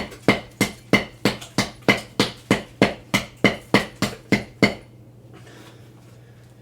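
A hammer pounding a block of concrete in rapid, even blows, about three a second, which stop about four and a half seconds in.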